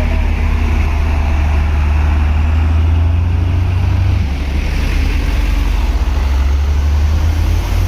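Heavy truck engine running steadily at close range, a low rumble that shifts slightly about four seconds in.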